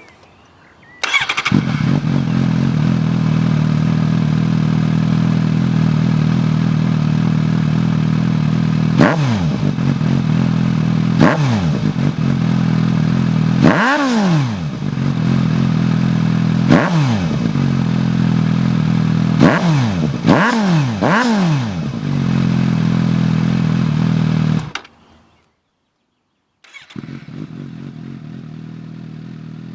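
Suzuki GSR 750's inline-four engine idling through a Scorpion RP-1 GP aftermarket exhaust, blipped about seven times, each rev rising sharply and falling quickly back to idle. Near the end the sound stops for about two seconds, then the engine idles again, quieter.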